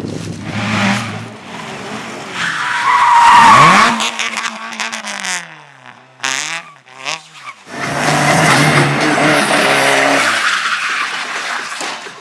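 Race car engine running hard with tyres squealing and skidding. Around the middle the engine pitch swings down and up among several sharp knocks, and then it pulls away again.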